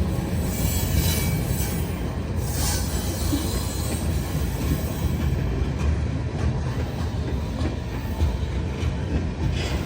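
Freight train cars rolling past with a steady low rumble, brief high wheel squeals in the first few seconds, and clicking of wheels over the rail joints.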